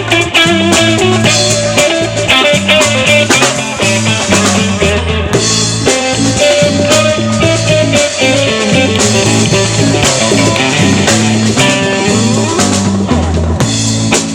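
Live band playing an instrumental passage: guitar over drum kit, with a bass line moving in steps.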